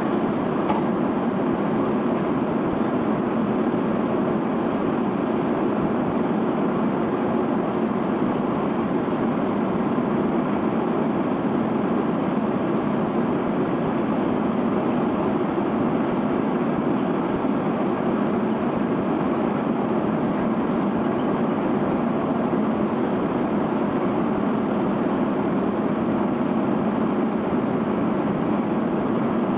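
Steady rushing noise of a sand ship's conveyor belt running, carrying and dropping sand as the cargo is unloaded.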